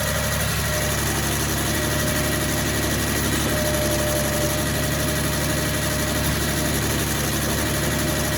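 Engine of a Reed C50HPS concrete pump running steadily at an even speed, with a faint steady whine above it.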